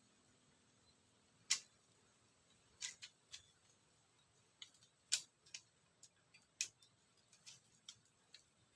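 About a dozen short, sharp clicks and ticks at irregular intervals over near silence, the loudest about one and a half seconds and five seconds in.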